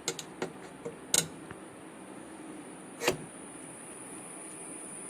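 Clicks and knocks of hand work on a semi-automatic washing machine's drain motor, its two screws just removed: a few light taps, a sharp double knock about a second in and another knock about three seconds in.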